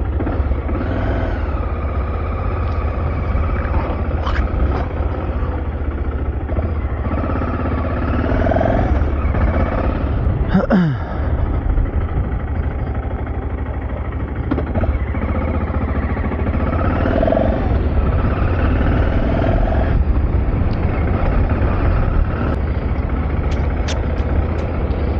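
Steady road and engine noise of a car driving on a freeway, heard from inside the cabin: a constant low rumble with a brief sweep falling in pitch about eleven seconds in.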